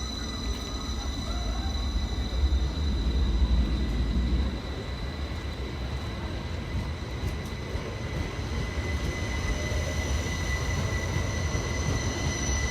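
Class 333 electric multiple unit pulling out of the platform: a low rumble, heaviest over the first few seconds, with a steady high-pitched electric whine that holds throughout.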